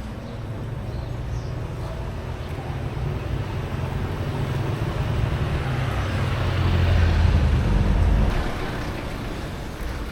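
Low rumble of a passing motor vehicle, growing louder to a peak about seven seconds in, then fading.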